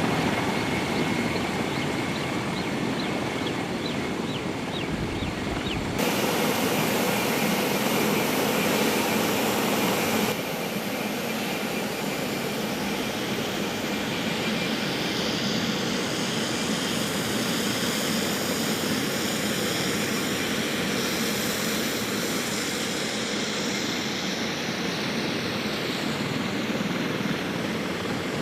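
Military rotorcraft turbine engines and rotors running: a steady, loud aircraft noise that changes abruptly about 6 and 10 seconds in. Near the end a high whine falls in pitch.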